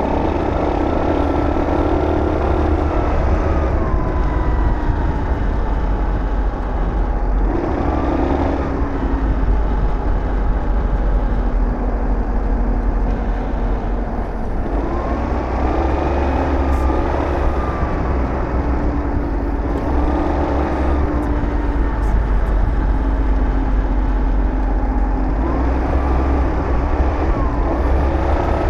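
Aprilia SR GT 200 scooter's single-cylinder engine running on the road, its pitch rising and falling several times with the throttle, over a steady heavy low rumble of wind.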